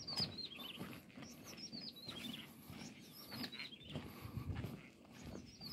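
A songbird singing a short phrase of high notes that step down in pitch, repeated every second or two.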